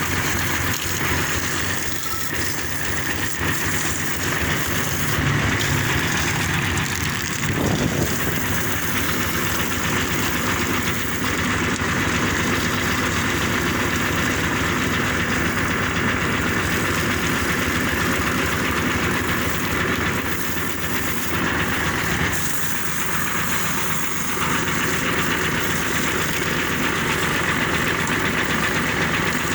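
An engine running steadily at idle with a fast, even pulsing, with a brief surge about eight seconds in.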